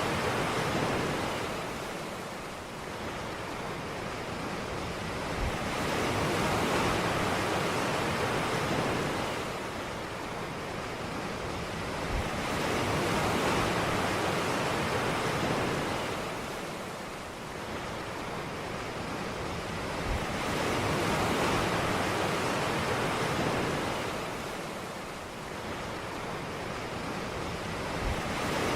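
Ocean surf on a beach: waves breaking and washing in, a steady rush of water that swells and eases about every seven to eight seconds.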